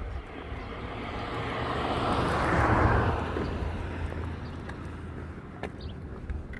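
A vehicle passing by: a broad rushing noise that swells to its loudest about halfway through, then fades away.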